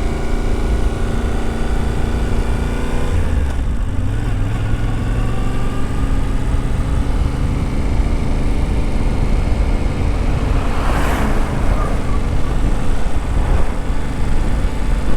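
Yamaha Tenere 700's 689 cc parallel-twin engine running at low road speed. The pitch drops at a gear change about three seconds in, then climbs slowly as the bike picks up speed, with a brief hissy rush about eleven seconds in.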